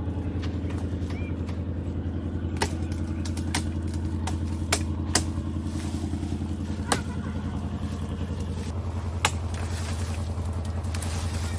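A motor running steadily with an even, fast pulse, with a few sharp knocks scattered over it.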